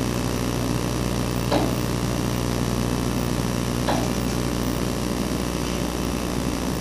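A bird striking window glass twice, about two seconds apart, each a short sharp knock. A steady mechanical hum runs underneath.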